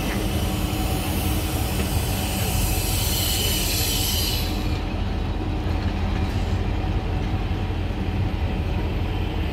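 SRT Royal Blossom passenger coaches rolling past at close range: a steady low rumble of wheels on the rails, with a high hiss that drops away about four and a half seconds in.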